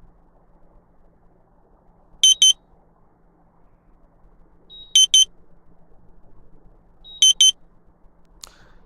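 Electric fireplace control unit giving a short, high-pitched double beep three times, a couple of seconds apart, each beep acknowledging a button press that steps the flame lighting's brightness down one level.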